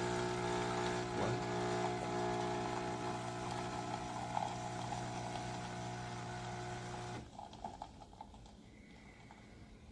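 Nespresso Lattissima Pro espresso machine's pump buzzing steadily with a hiss as it dispenses, cutting off suddenly about seven seconds in, followed by a few light clicks.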